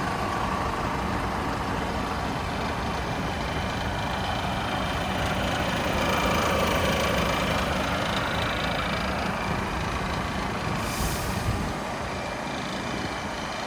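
Volvo FH16 750 tractor unit's 16-litre straight-six diesel running steadily, swelling in level around the middle, with a short hiss of air late on.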